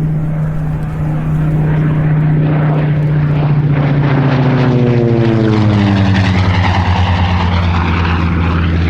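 Curtiss SB2C Helldiver's Wright Cyclone radial engine and propeller droning steadily as the plane flies past. About five seconds in, the pitch drops as it goes by.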